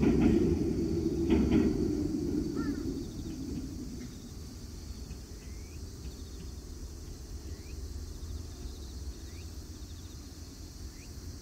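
An Echizen Railway train's rumble on a steel truss bridge, with a few wheel clicks, dying away over the first few seconds as it moves off. Then a steady low background is left, with a bird's short rising chirps every couple of seconds.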